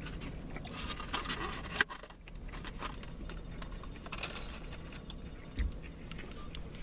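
Faint eating and handling noises, with small irregular clicks, crunches and rustles over low room background. A sharper click comes a little under two seconds in.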